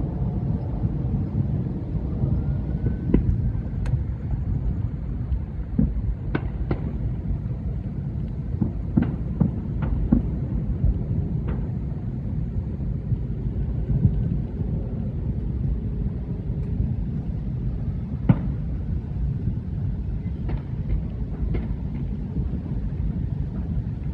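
Thousands of distant fireworks merging into an unending low rumble, like rolling thunder, with scattered sharper bangs and pops from nearer ones standing out about a dozen times.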